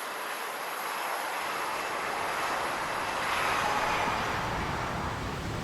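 Jet aircraft engine noise, a broad rush that swells to its loudest about four seconds in.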